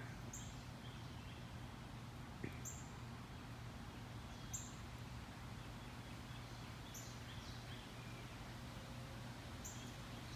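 Birds chirping outdoors: short high calls repeated every two seconds or so, over a faint steady low hum.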